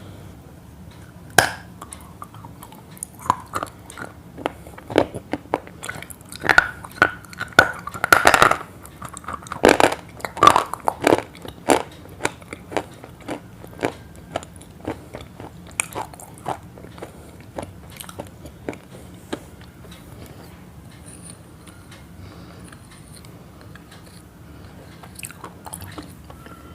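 Irregular crisp crunching clicks, many in quick succession through the first half and thinning to scattered ones later.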